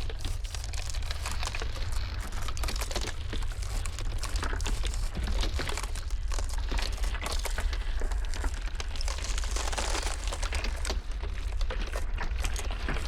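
Ice crackling and popping densely and irregularly, as in a cracking iceberg, over a steady low rumble of blizzard wind.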